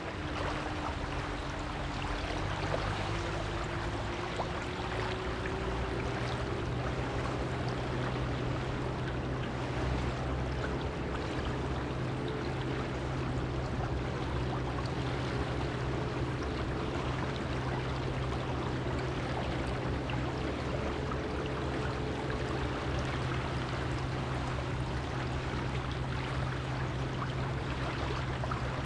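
Surf washing steadily on a beach, with a steady low hum underneath and a faint tone that slowly rises in pitch over the first twenty seconds.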